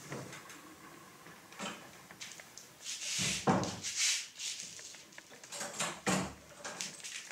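A series of irregular knocks and thuds with noisy scraping between them, the loudest cluster about halfway through and another near six seconds.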